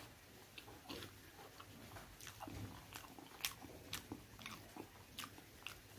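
Person chewing and biting pork: faint, irregular wet mouth clicks and crunches.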